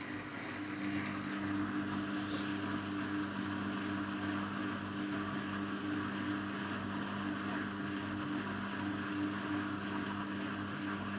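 Miele Novotronic W822 front-loading washing machine in its final spin: the motor whines with a steady tone over the rush of the spinning drum, and a second, lower tone joins about a second in as it gets louder.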